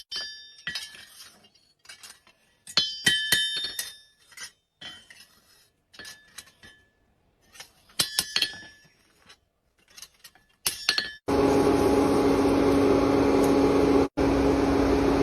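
A small hammer tapping a steel axe head to true it, in short clusters of sharp ringing clinks. Near the end a machine starts up and runs with a loud steady hum.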